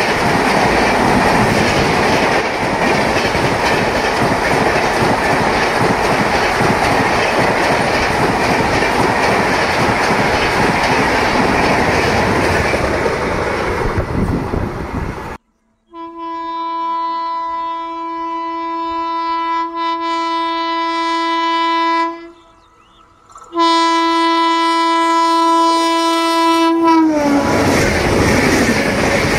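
A passenger train rushing past at speed, a loud steady rush of wheels and coaches that cuts off suddenly about halfway through. Then a train horn sounds two long steady blasts. The second blast drops in pitch as the train goes by, and the rush of passing coaches follows near the end.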